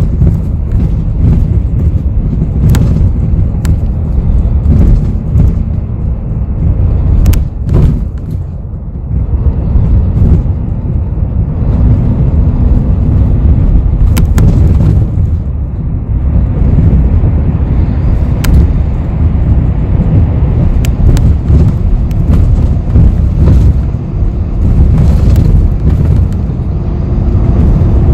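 Inside a moving city bus: a steady low rumble of engine and road noise, with scattered sharp rattles and clicks from the cabin. The rumble dips briefly about eight seconds in, and a faint steady hum rises over it for a few seconds around the middle.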